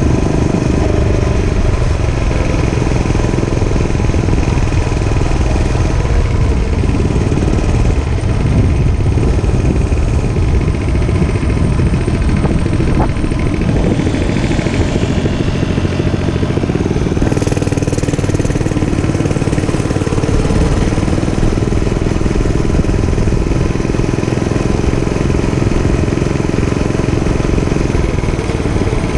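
Dirt bike engine running steadily under way, its pitch rising and falling with the throttle.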